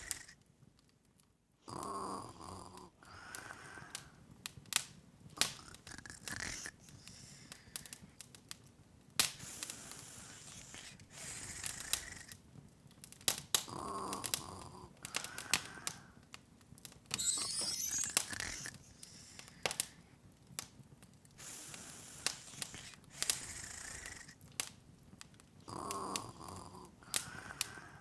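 Open wood fire crackling, with irregular sharp pops and snaps. A soft breathy, snore-like sound comes back about every twelve seconds, and a brief high glittering rise sounds near the middle.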